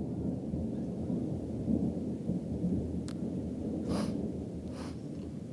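Thunder from a snowstorm (thundersnow) rumbling low and long, echoing off the surrounding mountains. Near the end come a short click and two brief breaths or sniffs close to the microphone.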